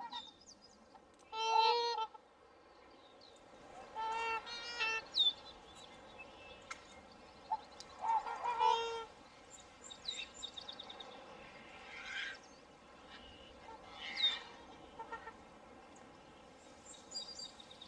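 Swans calling: several loud, pitched honks of about half a second to a second each, the strongest three in the first nine seconds and softer ones after, with short high chirps between.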